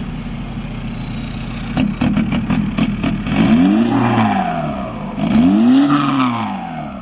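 Truck engine idling, then revved up and let back down twice in quick succession, with a brief run of sharp clicks about two seconds in.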